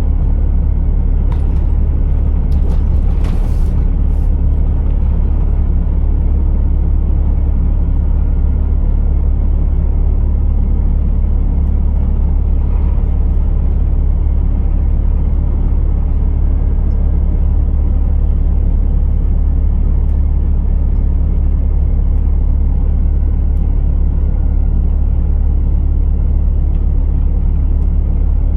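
Scania R480 truck's straight-six diesel running steadily with a deep, even rumble. A few short clicks sound in the first few seconds.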